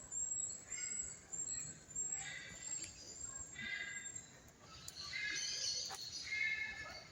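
Birds calling: a run of short, high chirping calls, one about every second.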